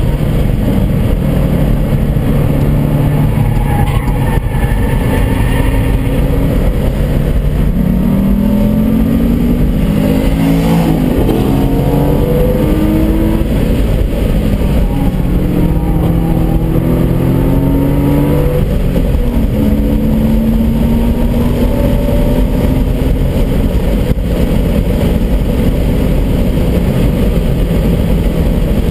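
2001 Porsche Boxster S's flat-six engine at full throttle on track, heard from inside the car. Its pitch climbs through each gear and drops back at the upshifts, over a steady low rumble of wind and tyres.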